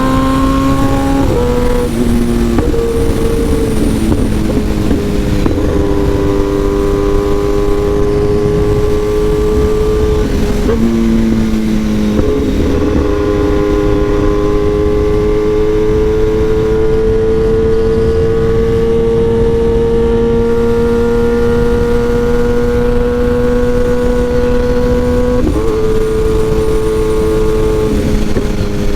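Kawasaki ZX-10R inline-four sportbike engine through an SC Project exhaust, pulling under load with its pitch climbing slowly. There are several sudden pitch steps from gear changes: about 1, 2, 5, 10, 12 and 25 seconds in. A steady low wind rush runs underneath.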